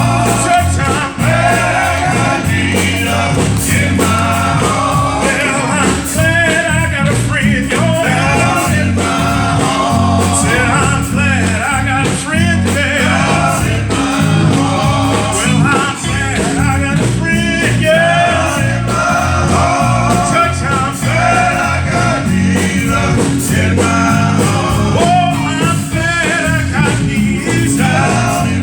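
Live gospel praise-and-worship music: voices singing over a band with a steady bass line.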